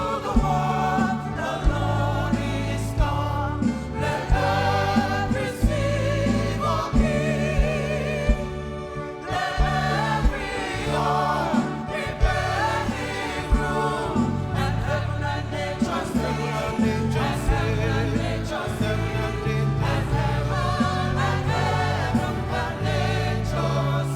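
Gospel choir singing with live band accompaniment: steady low bass notes and regular drum hits keeping the beat.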